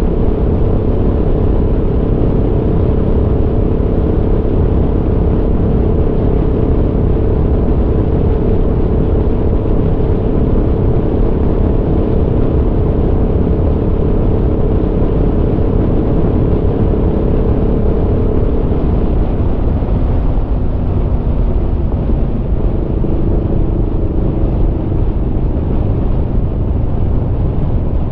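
Aprilia Tuono V4's V4 engine running under way at a steady pitch over a deep rumble. About two-thirds of the way in the engine note drops lower and then holds steady again.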